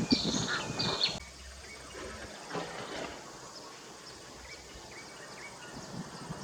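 Blue-throated bee-eaters calling: a run of short, sharp calls that fall in pitch at the end of each note, loud with a low rumble of wind over the first second, then cut off abruptly to fainter, scattered calls of the same kind.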